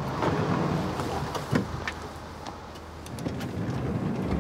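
A car engine running, heard from inside the cabin as a steady low hum, with a few short clicks as a passenger gets ready to step out.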